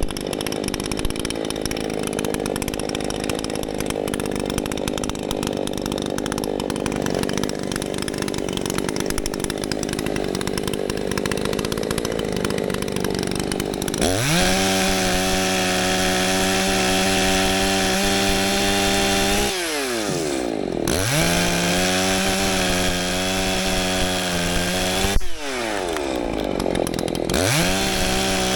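Gas two-stroke chainsaws running. A steady, noisy cutting sound fills the first half. Then a saw revs up to full throttle, drops back twice and revs up again each time.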